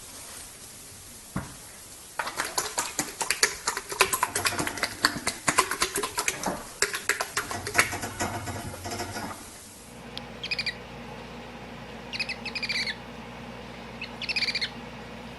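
An animal's dense, rapid chattering calls, then, after a cut, short high chirping calls in three brief bouts.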